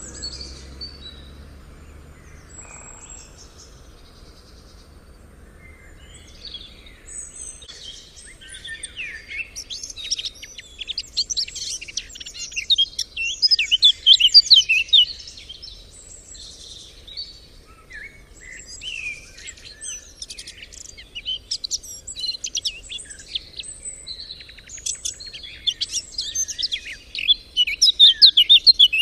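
Songbirds singing in rapid, high chirping phrases, starting faintly and thickening from about six seconds in, loudest in the middle and again near the end.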